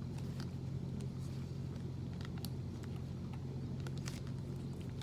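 A steady low hum, with faint scattered clicks of someone chewing a chewy protein bar.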